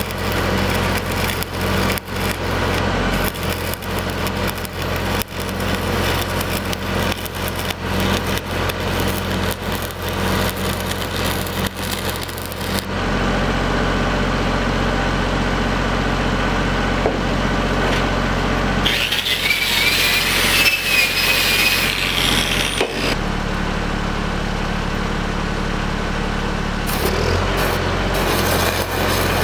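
An engine running steadily, with dense irregular crackling over it for the first half and a high scraping squeal for a few seconds about two-thirds of the way in.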